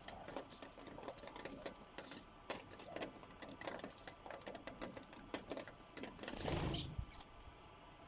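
Sparrows pecking at a bird feeder: rapid, irregular tapping of beaks on the feeder. A louder brief rush of noise comes about six and a half seconds in, and the tapping stops soon after.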